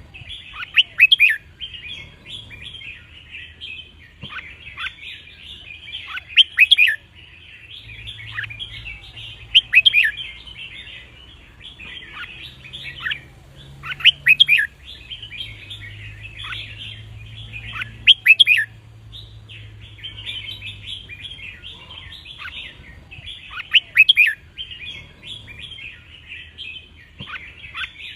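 Red-whiskered bulbul song: loud, clear whistled phrases repeat every few seconds over a steady background of busy chirping and twittering.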